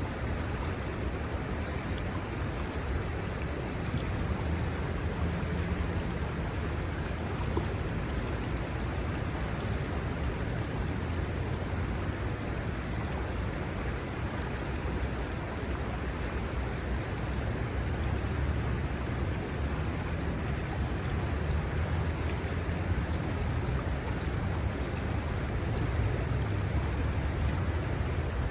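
Steady rush of the Kamo River's shallow flowing water, with a low rumble beneath it.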